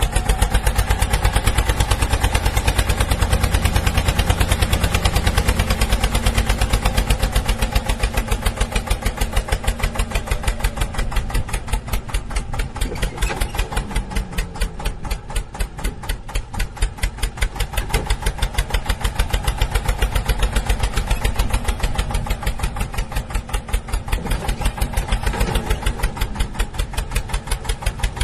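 Tractor-style engine running with an even, steady thumping of about five to six beats a second, loudest in the first few seconds.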